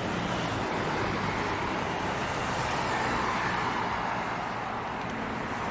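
A motor vehicle driving by: steady engine and tyre noise that swells a little around the middle.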